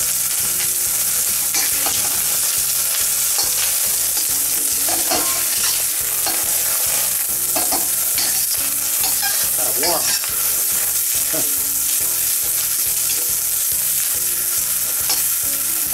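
Onions sizzling and frying in hot oil in a carbon steel wok, stirred and scraped around the pan with a metal wok spatula, with short scraping strokes throughout. This is the oil-and-onion stage of seasoning a new wok.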